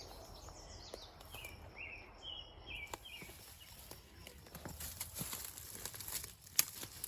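Footsteps on a trail, with a bird chirping in short notes during the first few seconds; the footsteps get busier after about four seconds as a run of light knocks and scuffs.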